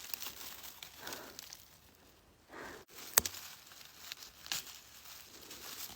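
Quiet rustling and light cracks in leaf litter, as of someone moving and picking through the forest floor, with one sharper snap about three seconds in.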